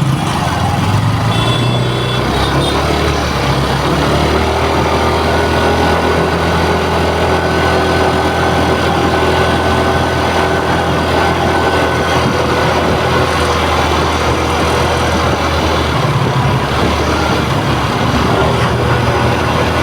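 TVS Jupiter 113 scooter's single-cylinder engine idling steadily, the engine noise that the owner reports as a problem.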